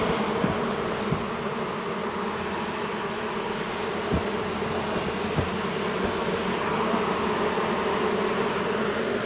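Honey bees of a large colony buzzing in a dense, steady hum, the colony disturbed by having its wall cavity opened. A few light taps come through the buzzing.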